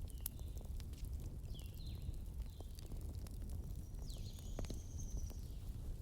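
Wood fire crackling, with scattered sharp pops over a low rumble. Short high chirping whistles come several times, a longer thin one near the end.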